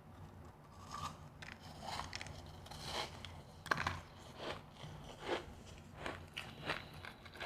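A person biting and chewing refrozen powdery ice close to the microphone. The ice gives crisp crunches about once a second, with the loudest crunch just before the middle.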